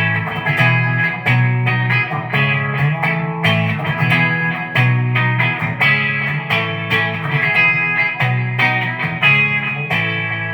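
Electric guitar, a PRS SE Hollowbody II with humbucker pickups, played through a Peavey Vypyr X2 modeling amp on a clean setting: quickly picked notes and chords ringing over sustained low notes.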